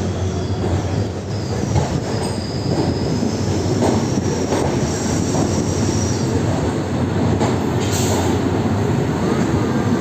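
Passenger train running on the rails, heard on board: a steady rumble of wheels and coaches with a few clacks and a faint high wheel squeal a few seconds in.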